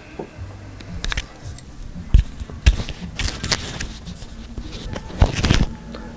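Hands working spliced wires and tape on a car-radio wiring harness: irregular rustles and several sharp clicks, loudest about two seconds in and again about five seconds in.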